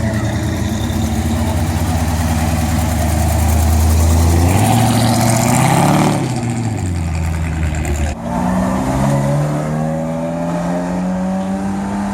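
Car engines running: a steady engine note, then one rises in pitch about halfway through and falls back a couple of seconds later, and near the end another engine's note climbs slowly as it accelerates.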